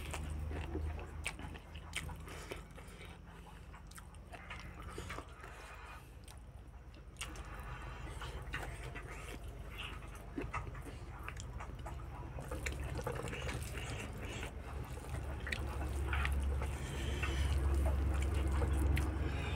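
Wet chewing and lip-smacking of a person eating rice and meat by hand, with scattered small clicks and squishes from fingers working rice on a metal plate. Underneath runs a low hum that grows louder near the end.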